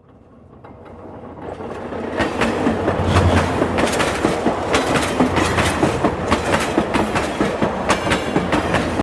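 Indian Railways train running past at speed, its wheels clattering over the rail joints in a stream of sharp clicks. It swells up from silence over the first two seconds as it approaches, then stays loud.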